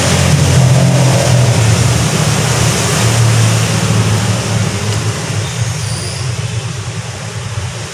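Heavy rain pouring down as a loud, steady rushing noise, with a low rumble underneath that eases somewhat in the second half.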